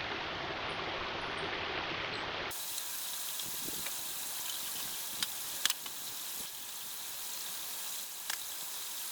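Steady rushing of a nearby stream. About two and a half seconds in, it cuts to a brighter, steady hiss with a few sharp clicks.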